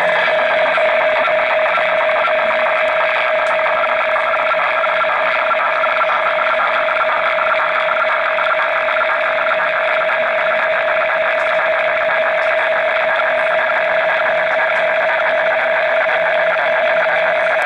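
Realistic DX-200 shortwave receiver's speaker playing an unidentified signal tuned near 9 MHz: a steady mid-pitched tone under a dense, rapidly fluttering buzz and hiss.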